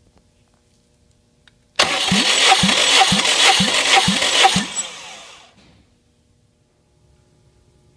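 Starter motor cranking a Subaru EJ201 2.0-litre flat-four engine without it firing, as in a compression test, with a low pulse about twice a second, for about three seconds before it cuts off and spins down.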